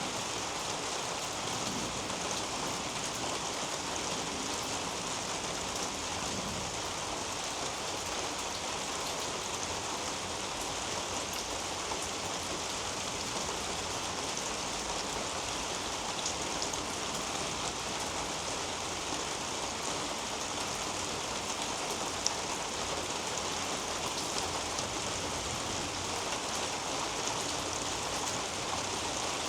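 Steady rain falling through a leafy garden canopy onto leaves and soil, an even hiss, with one sharper drop hit a little past the middle.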